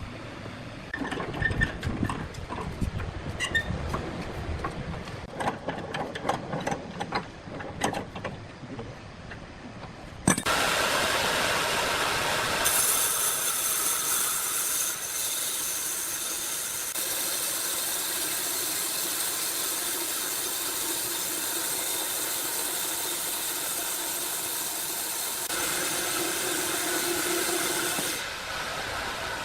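Sawmill at work: irregular knocking and clattering for about ten seconds, then a sudden loud, steady hissing rush, typical of a saw running through a log, that holds for about eighteen seconds and eases off near the end.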